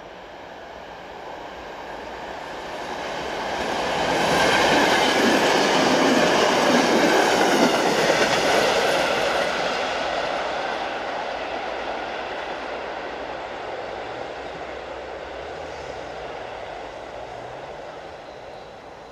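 PKP class EN57 electric multiple unit passing on the track. The noise of its wheels and running gear swells to a peak about four to nine seconds in, then fades slowly as it draws away.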